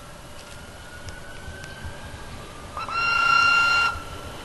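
Electric rack-railway train pulling away, its motor whine rising steadily in pitch. The train's horn sounds once, loudly, for about a second, a little under three seconds in.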